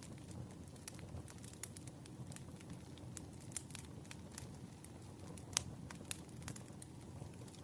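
Campfire crackling: a steady low rush of flames with frequent sharp, irregular pops, one louder pop about five and a half seconds in.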